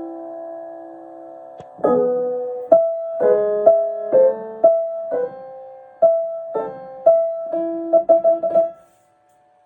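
Piano played at an unhurried pace: chords and single notes struck and let ring, the phrase halting about nine seconds in, when the sound cuts off into silence.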